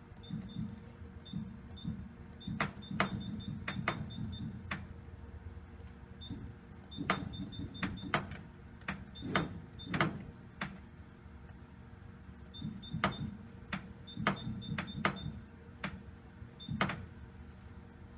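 CNC lathe's control panel and axis drive as the tool is jogged toward the workpiece: clusters of short high beeps and sharp clicks from key presses, with a low whir of the axis motor in short runs between pauses.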